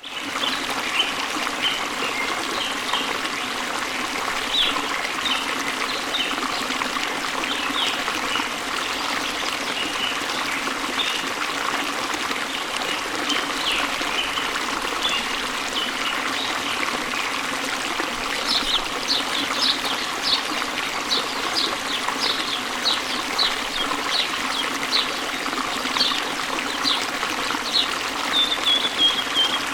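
Small waterfall running steadily: an even rush of falling water with trickling and splashing. Short high chirps sound over it, coming more often in the second half.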